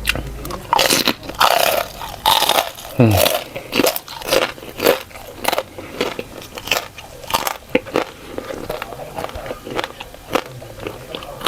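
Close-miked eating: loud crunching bites of crisp food at first, then steady chewing with crunches about twice a second.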